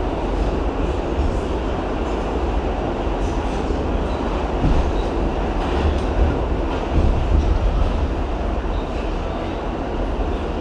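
R68 subway train running along the track: a steady, loud rumble with rail clatter.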